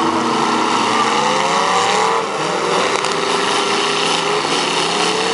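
Engines of several demolition derby cars revving together, their pitches climbing and falling over one another as the cars accelerate and slow.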